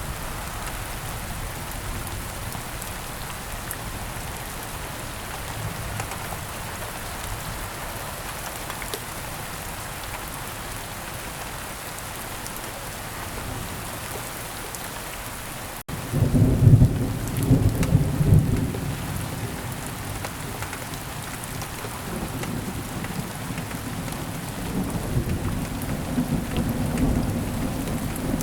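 Steady rain falling. About halfway through there is a sudden break, then thunder rumbles loudly for a few seconds, and softer rumbles continue under the rain near the end.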